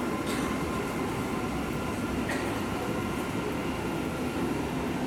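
Tokyu 5080 series electric commuter train pulling into a station and slowing to a stop, with steady wheel and running noise.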